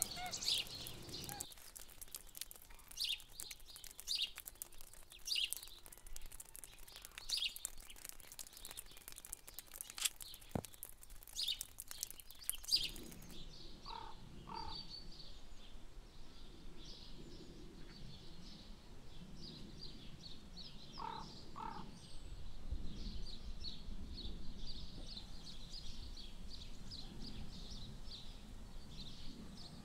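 Small birds chirping in quick, short calls, with sharp ticks scattered among them in the first half. About halfway through, the chirping becomes steadier, and a low rumble comes in later.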